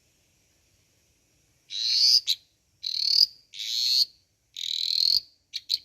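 Dwarf tree frog croaking loudly: after a quiet start, four high buzzing croaks about half a second each, then two short clipped chirps near the end.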